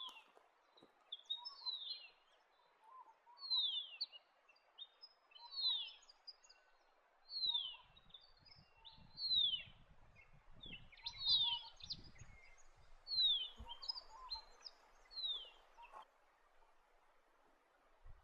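Horsfield's Bronze-Cuckoo calling: a series of high, down-slurred whistles, about one a second.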